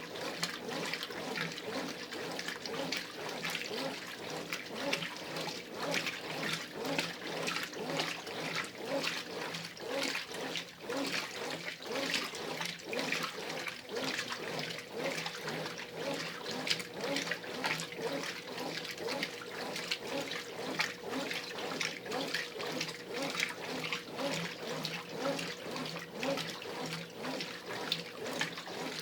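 Brastemp Ative 11 kg top-load washing machine agitating its load in the wash stage of a heavy cycle: water and clothes churning and sloshing in a regular back-and-forth rhythm over a faint steady hum.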